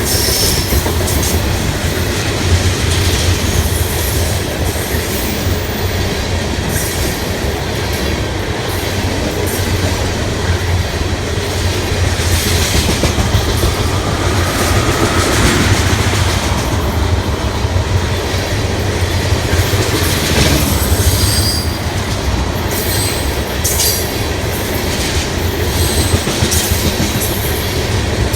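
Freight train of ethanol tank cars rolling past: a steady rumble of wheels on rail, with the click of wheels over rail joints and a brief wheel squeal about halfway through.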